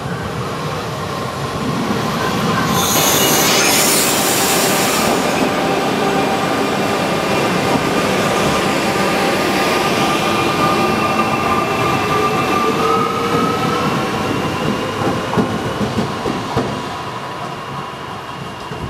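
Trenitalia Minuetto multiple-unit train running slowly past at close range, with steady whining tones and wheel squeal. A burst of high hissing comes about three seconds in, and one tone rises slightly around the middle. A few sharp clicks from the wheels follow before the sound eases off near the end.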